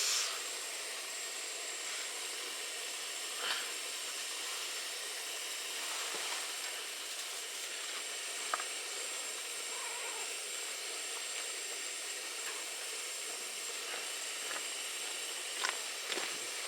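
Steady hiss of a hotpot simmering, with a few faint clicks or pops along the way.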